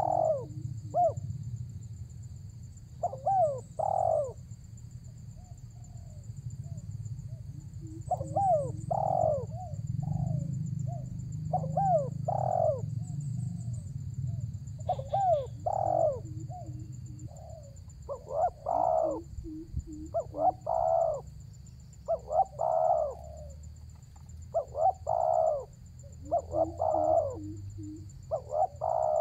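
Spotted dove (tekukur) cooing over and over in short phrases of several notes, a call aimed at a rival bird. A steady high-pitched whine and a low hum run underneath.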